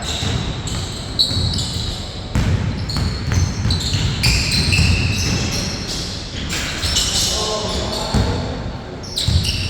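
Basketball bouncing on a hard court during a 4-on-4 game, with players' voices and short high-pitched squeaks mixed in.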